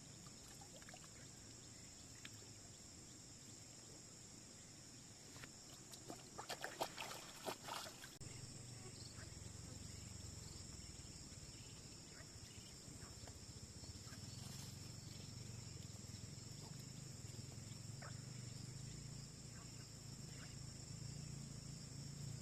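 Faint, steady chirring of insects such as crickets. About six to eight seconds in there is a short cluster of clicks and knocks, and from then on a low hum runs underneath.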